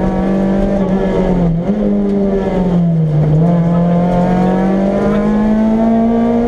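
Renault Clio Williams rally car's two-litre four-cylinder engine, heard from inside the cabin, running at high revs under hard driving. Its pitch falls sharply right at the start, dips twice (about a second and a half in and about three seconds in), then climbs steadily as the car pulls.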